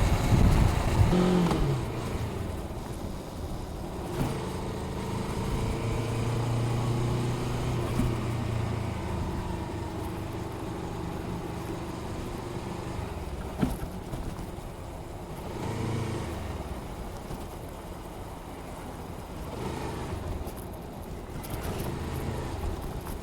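Honda Rebel 500's parallel-twin engine running through its stock exhaust, with heavy wind noise on the microphone in the first couple of seconds. The engine then holds a steady low note and picks up briefly a few times.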